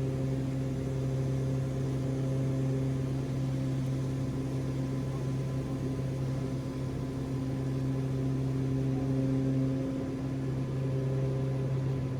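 Steady cockpit drone of a Cessna Conquest 441's twin Garrett TPE331 turboprop engines and propellers at climb power, an even hum with several fixed tones over a rushing noise.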